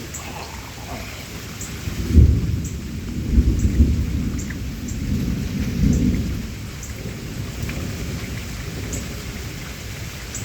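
Thunder rumbling over steady rain. It breaks about two seconds in, rolls in several swells for a few seconds and then eases off, while raindrops tick irregularly on a surface.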